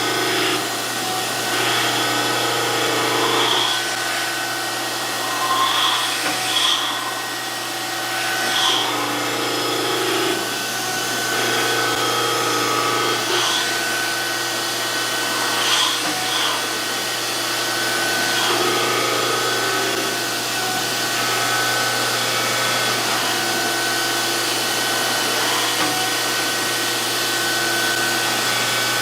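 DoAll 14-inch grinder running steadily with a constant hum and a high whine, its sound swelling and easing every few seconds.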